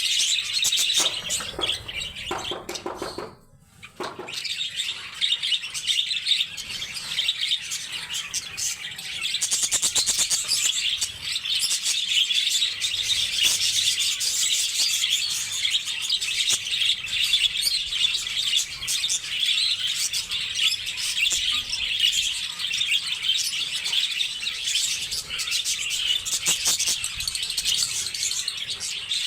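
Lovebirds chirping and chattering in a dense, continuous high-pitched chorus, with a brief pause about three seconds in.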